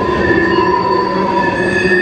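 Freight train tank cars rolling past, steel wheels rumbling on the rails with several steady high-pitched wheel squeals over the top; the squeals shift higher and grow stronger near the end.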